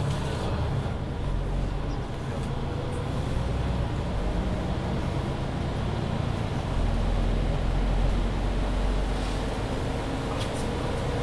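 Mercedes-Benz Citaro C2 hybrid city bus under way: a steady low engine and drivetrain rumble with road noise, growing louder about seven seconds in, and a faint thin whine above it.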